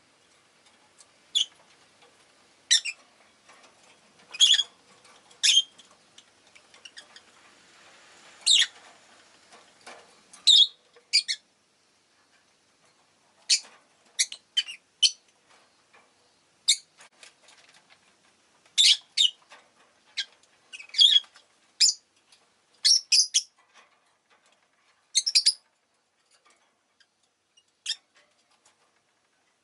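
Rosy-faced lovebirds (Agapornis roseicollis) giving short, sharp, high-pitched chirps, singly and in quick clusters, at irregular intervals. A faint low background noise runs under the first ten seconds or so.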